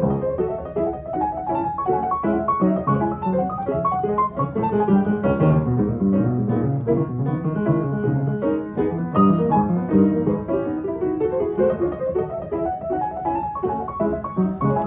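Piano playing a busy passage of many quick notes.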